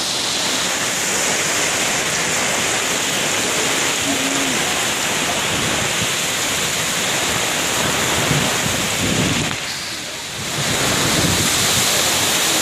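Heavy rain pouring down in strong wind, a steady loud hiss, with gusts rumbling on the microphone. It eases briefly about ten seconds in.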